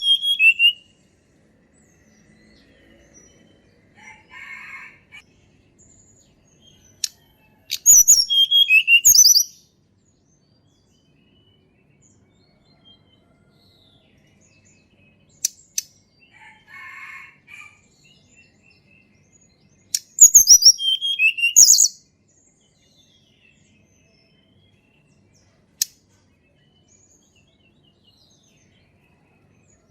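Tledekan gunung singing: three short phrases of rapid, high whistled notes that tumble downward in pitch, about ten seconds apart, the loudest near two-thirds of the way through. Softer, lower chattering notes come in twice between the phrases.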